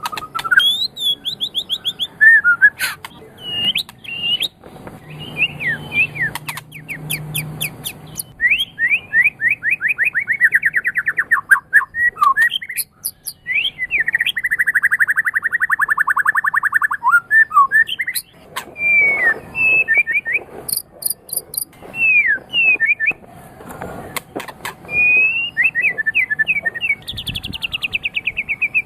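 White-rumped shama (murai batu) singing a long, varied song: clear whistled notes that glide up and down, mixed with fast trills and buzzy rattling runs, with short pauses between phrases.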